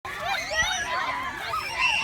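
A crowd of voices shouting and chattering over one another, with high-pitched shrieks among them.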